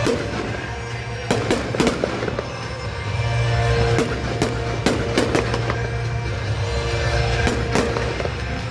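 Fireworks going off in a string of sharp, irregular bangs, with music playing underneath.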